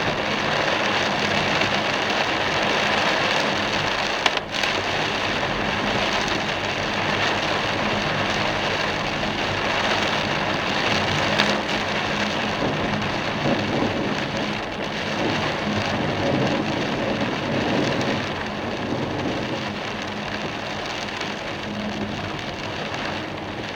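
Torrential rain drumming steadily on a moving car, mixed with the hiss of tyres on the flooded road, with a brief click about four seconds in.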